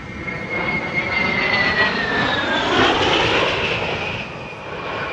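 A-10 Warthog jet making a low pass, the whine of its twin TF34 turbofan engines sliding down in pitch as it goes by, over a rushing noise that is loudest about three seconds in.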